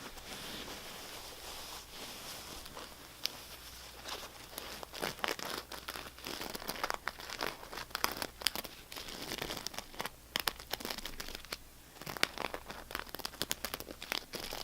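Something crinkly being scratched and crumpled up close: a soft scratchy rubbing for the first few seconds, then dense, irregular crackling and clicking.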